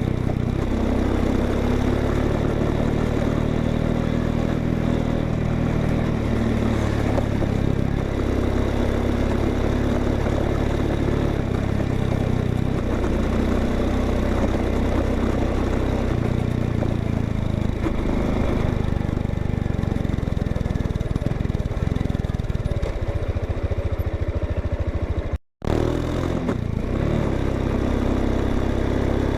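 Honda XRE 190 single-cylinder motorcycle engine running steadily at idle, heard through its exhaust. The sound cuts out for a moment near the end.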